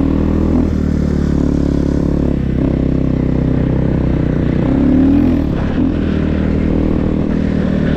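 Snow bike's single-cylinder dirt-bike engine running under throttle while riding, its pitch rising and dropping several times as the throttle opens and closes.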